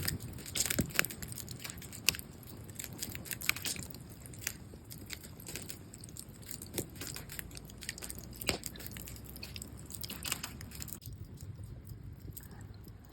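Wood campfire crackling with irregular sharp pops; the crackle mostly stops about eleven seconds in.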